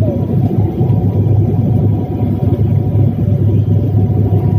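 Steady, loud low rumble of a vehicle running, with a faint steady hum above it.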